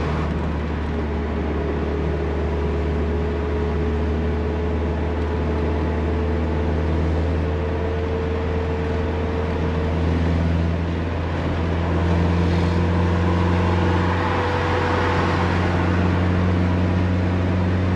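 Toyota Corolla AE86's engine running steadily with tyre and road noise, heard from inside the cabin while cruising. The engine note drifts slightly in pitch and grows a little louder about twelve seconds in.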